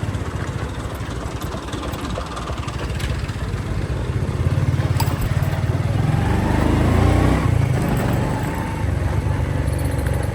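Motorcycle engine running while riding along a street, with a low, fast pulsing and road noise; it grows louder from about four seconds in and eases off again about three-quarters of the way through.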